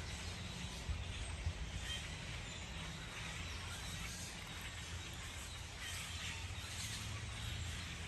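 Outdoor ambience: a steady low rumble with a few faint, short bird chirps over it.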